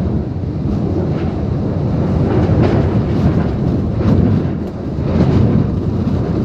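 Typhoon wind and heavy rain: a loud, continuous rushing that swells and eases in gusts.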